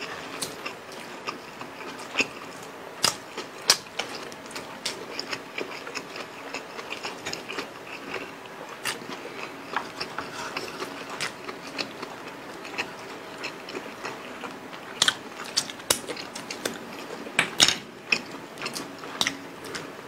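Close-miked eating sounds of two people chewing pork and rice with their hands: an irregular run of short mouth clicks and smacks, with a few louder ones.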